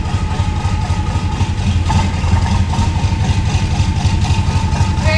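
Passenger ferry's diesel engine running at low idle with a steady low rumble while the boat berths.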